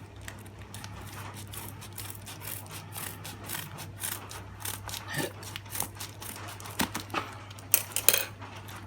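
A parcel being opened by hand: packaging crinkling and tearing in an irregular run of crackles and clicks, loudest about eight seconds in.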